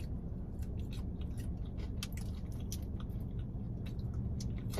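Biting and chewing crispy fried chicken up close: irregular crunches of the breading as it is chewed, over a steady low hum.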